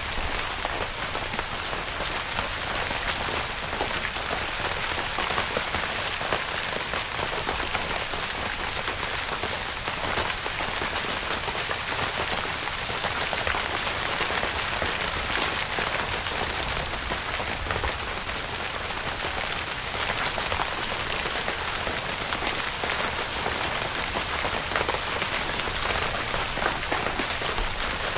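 Steady rain falling on tent fabric: many small drop taps over an even hiss, with no let-up.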